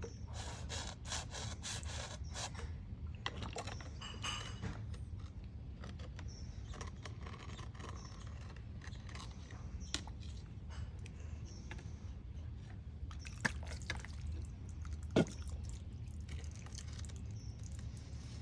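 Scraping and small clicks as a homemade pipe toilet full of sand and water is handled, with some faint trickling and a few sharper clicks in the second half, over a steady low hum.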